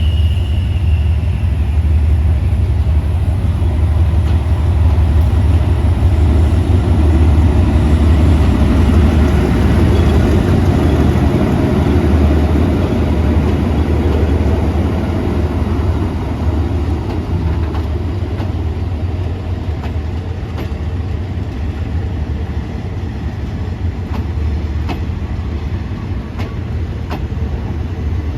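Train running along the track with a steady heavy rumble that eases somewhat in the second half. Faint clicks of wheels over the rail joints come near the end.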